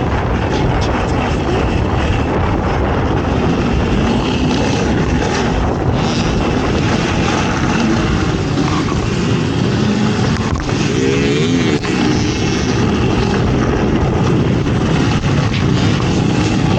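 ATV engine running hard under racing, its pitch rising and falling as the throttle is worked, with a quick set of revs about eleven seconds in.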